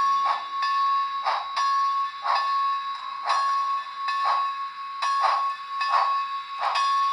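Sound-decoder steam effects from an HO scale Baldwin 2-8-0 model locomotive: exhaust chuffs about once a second, coming a little faster near the end, over a steady ringing tone.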